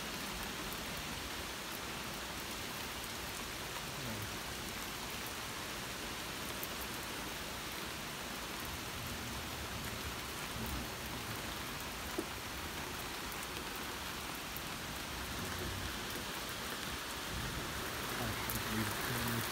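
Steady rain falling on a wooden deck and the yard around it, an even hiss of many drops.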